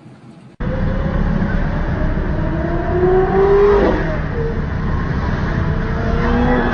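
Car engine accelerating hard over heavy rushing noise, starting abruptly about half a second in; its pitch climbs, drops sharply near the middle, and climbs again near the end.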